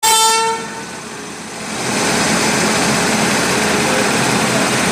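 A brief horn note sounds right at the start, the loudest moment, and fades within about a second. A steady rushing running noise then builds up and holds, like a train under way.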